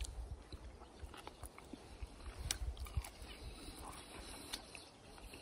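Chewing of grilled meat close to the microphone: scattered wet mouth clicks and smacks, the sharpest about two and a half and three seconds in, over a low rumble.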